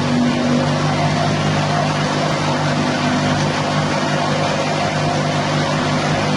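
The 6.5 HP petrol engine of a grass chopping machine running steadily at a constant speed, with its chopper running too.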